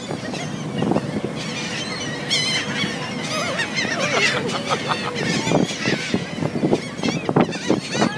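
A flock of gulls calling over one another: many short, wavering cries overlapping the whole time, over a steady rushing background.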